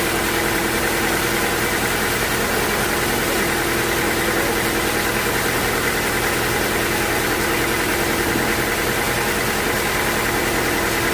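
Sawmill machinery running steadily: a constant motor hum with an even rushing noise over it, with no change in pace or load.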